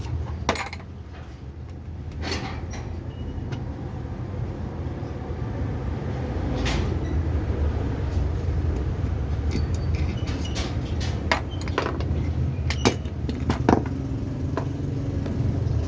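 Light clicks and knocks of starter-motor parts being handled over a steady low rumble.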